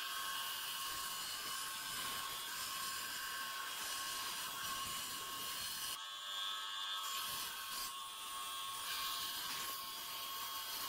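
Small high-speed electric power tool running steadily with a constant whine.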